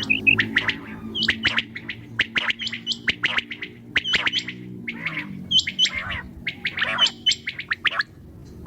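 Several quails chirping in quick, overlapping short calls with no pause, over a low steady hum that fades out a little past halfway.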